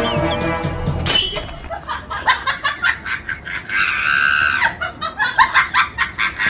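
Music with pitched tones that stops about a second in, then an irregular string of sharp clicks and knocks, with a burst of laughter near the middle.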